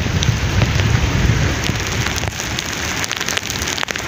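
Heavy rain pouring down, a steady hiss full of close drop hits, with a low rumble through the first couple of seconds.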